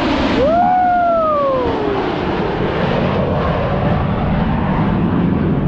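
Military jet aircraft in the display running low overhead: a loud steady roar. About half a second in, a spectator lets out one long whoop that falls in pitch.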